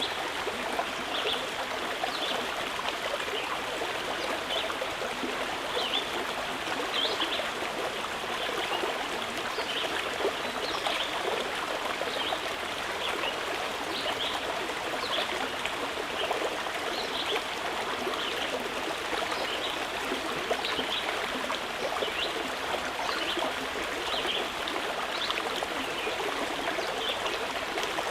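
Water in a stream flowing steadily over stones, babbling with many small splashes and trickles.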